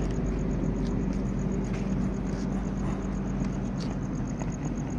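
Steady low hum of a passenger train standing at a station platform, with a faint rapid high ticking, about eight a second, above it.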